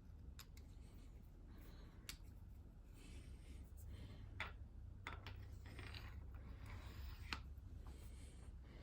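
Faint, scattered metallic clicks and clinks of milling-arbor spacers and bearing being handled and slid onto the arbor of a horizontal milling machine, over a low steady hum.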